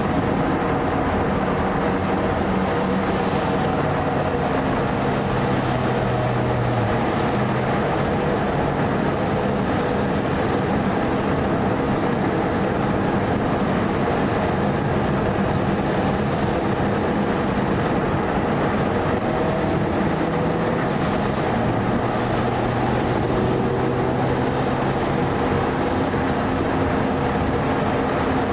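Mitsubishi Lancer Evo IV's turbocharged four-cylinder engine heard from inside the cabin at speed on a race track, its revs rising and falling over a constant rush of road and wind noise.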